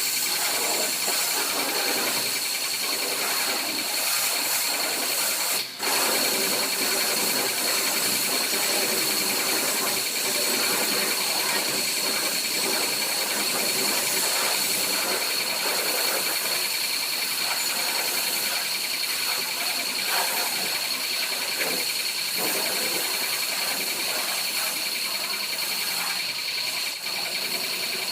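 A car-wash machine running steadily: a loud hiss with a constant high whine, dipping briefly about six seconds in.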